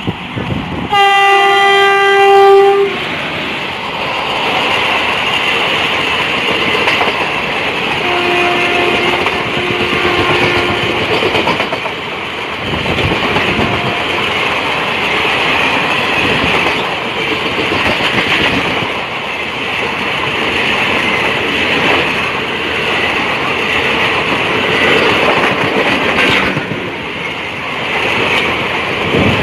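Electric locomotive's air horn sounding one loud blast of about two seconds, about a second in, and a few shorter, fainter horn notes around eight to eleven seconds in. Throughout, the passenger train passes with a steady rumble and the clickety-clack of its coaches' wheels on the rails.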